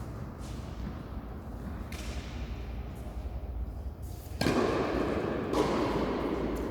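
Tennis ball being struck during a doubles rally, a few sharp hits over a steady low hum; just after four seconds in, a louder stretch of noise sets in.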